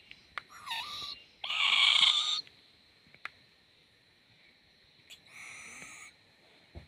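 Owlet calling: three short calls, the second the loudest and the last one fainter.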